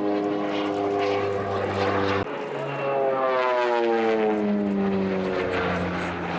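Propeller aircraft engine drone during a display flight. About two seconds in the tone changes abruptly, and then the pitch falls steadily as the aircraft passes by.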